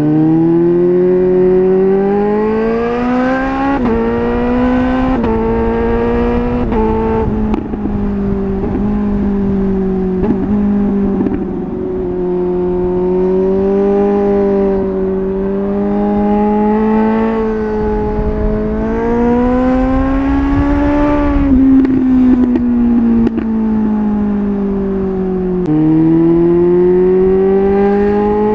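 Suzuki GSR 750's inline-four engine breathing through a MIVV Double Gun aftermarket exhaust, under way. The revs climb and drop sharply in a run of quick upshifts, made without the clutch by the Healtech quickshifter, then rise and fall gently at cruising speed. There is one more sharp shift near the end.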